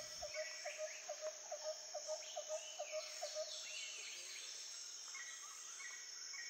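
Faint animal chorus: a quick run of short chirping notes, about four a second, that stops about three and a half seconds in, over a steady high insect-like drone with scattered higher chirps.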